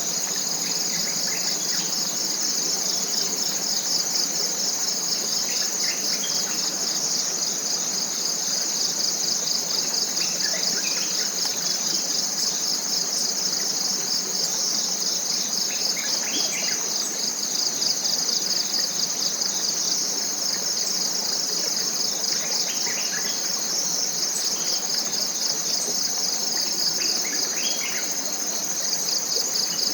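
Tropical forest insect chorus: a steady, high, pulsing drone with no break. Faint short bird chirps come in now and then underneath.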